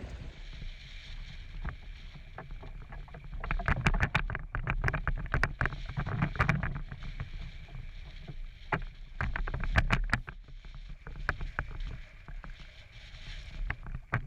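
Canoe on choppy water: irregular splashes and sharp knocks against the hull, thickest in the middle, over a steady low rumble of wind on the microphone.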